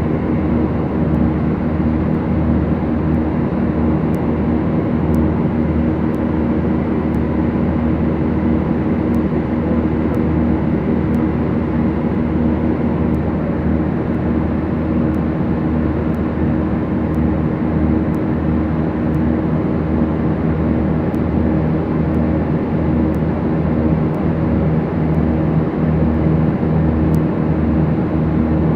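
Steady cabin drone of a Beechcraft Duchess's twin piston engines and propellers running at constant power, an even hum with no change in pitch, with faint ticks about once a second high above it.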